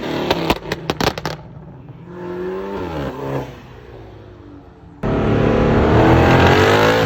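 Car engines revving. About a second in there is a quick string of sharp pops, then a quieter rev rises and falls, and about five seconds in a loud engine starts revving hard, its pitch climbing.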